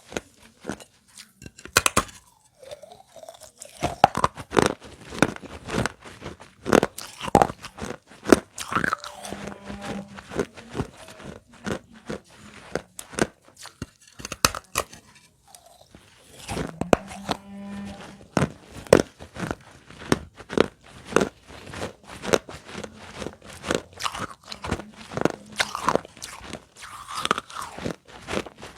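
Close-up crunching and chewing of lightly soaked pieces of baked clay pot, many sharp bites in quick succession with a short lull about halfway through.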